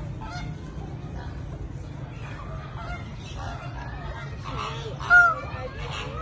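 Many birds calling in an aviary, short pitched calls overlapping one another over a steady low background rumble, with the loudest calls about five seconds in.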